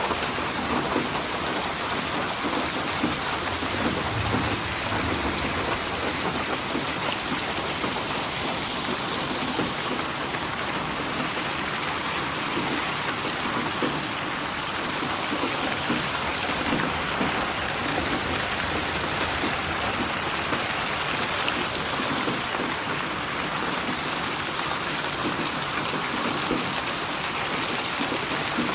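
Steady rainfall, a dense even patter of rain on surfaces.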